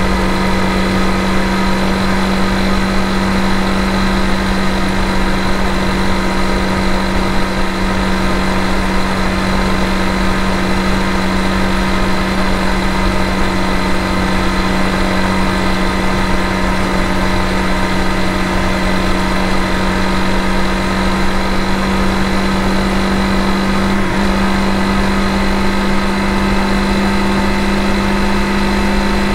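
Honda CRF250 Rally's single-cylinder four-stroke engine running at a steady cruising speed. Its note holds steady and rises slightly about 24 seconds in.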